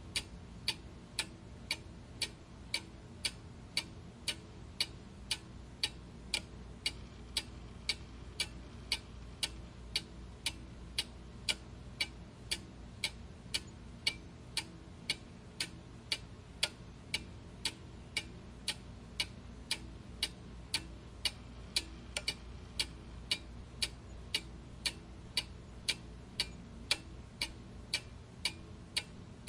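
A clock ticking steadily, about two ticks a second, over a faint low hum.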